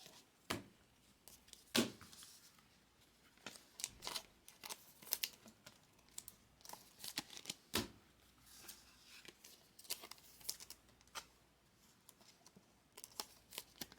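Trading cards and pack wrappers being handled: irregular soft clicks, taps and rustles, with a few louder knocks.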